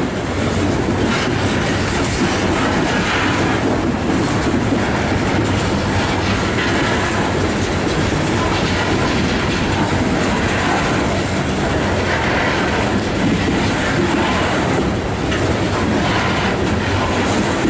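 Coal train hopper cars rolling slowly past: a steady rumble of steel wheels on rail, with repeated clicks as the wheels cross rail joints.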